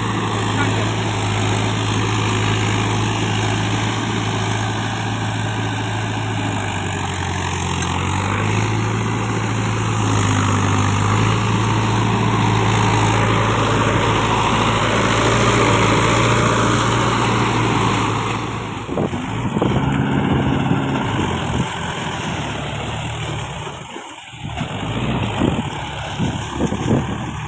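Mahindra tractor's diesel engine running, its steady hum stepping up in pitch and loudness about eight seconds in. Past the two-thirds mark the sound turns uneven, with a brief sharp dip before picking up again in a choppy way.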